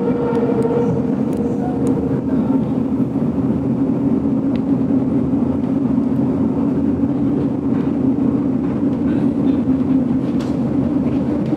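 GoldenPass Belle Époque train running along the line, heard from inside a passenger carriage: a steady rolling rumble of wheels on rail, with a faint tone that fades out in the first couple of seconds and a few light clicks.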